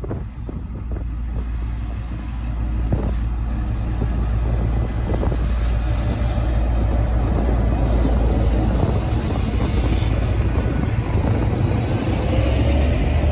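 Two Queensland Rail diesel-electric locomotives hauling a passenger train pass close by. There is a deep engine rumble that grows louder over the first several seconds, then the steady rolling noise of the carriages going past.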